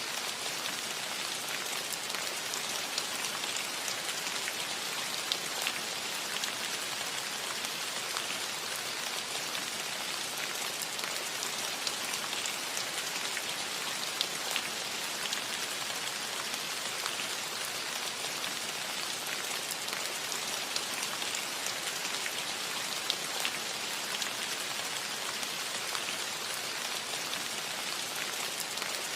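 Steady rain pattering on a metal roof, a dense even hiss with many small individual drop ticks.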